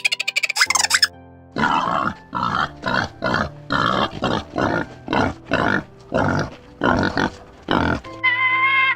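Pig grunting: a series of about a dozen short, coarse grunts at roughly two a second, over background music. It opens with a brief rapid rattling burst, and near the end a higher, drawn-out animal call begins.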